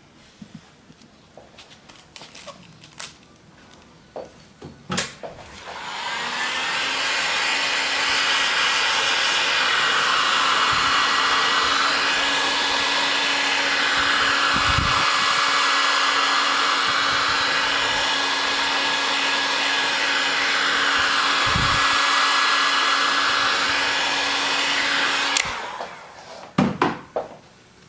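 A hot-air blower runs steadily for about twenty seconds with a constant hum under the rushing air. Its sound swells and fades slowly as it is moved about, then it switches off abruptly. A few light clicks of handling come before and after it.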